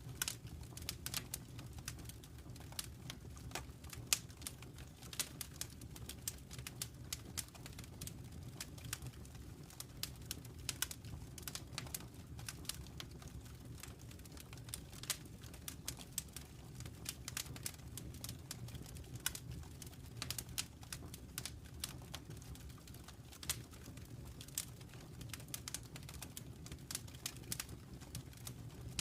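Wood fire burning, with many small sharp crackles and pops at irregular intervals over a steady low rumble.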